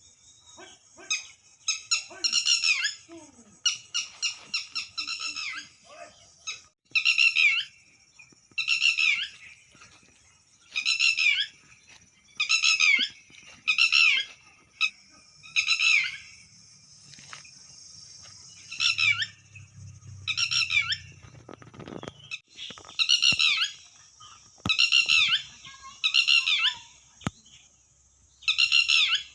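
Red-wattled lapwing calling: a quick run of short repeated notes in the first few seconds, then single high calls about every two seconds. A steady high hiss runs underneath.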